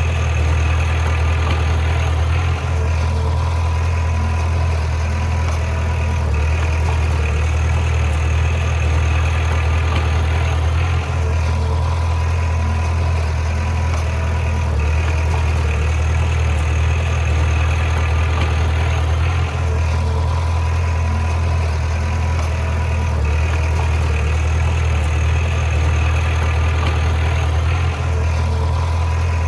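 Heavy diesel engine of earthmoving machinery running steadily with a deep hum, with a brief slight dip about every eight seconds.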